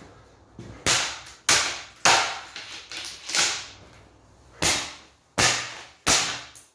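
A plastic HPM exhaust fan being struck hard again and again, about seven sharp cracking blows with short pauses between them, as the cheap housing breaks apart.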